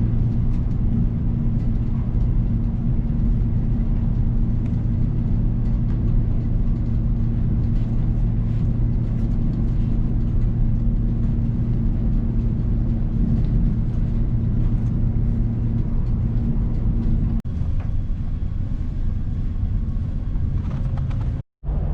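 Steady low rumble and hum of a moving passenger train heard from inside the carriage, with a constant low drone. The sound shifts slightly at a cut about 17 seconds in.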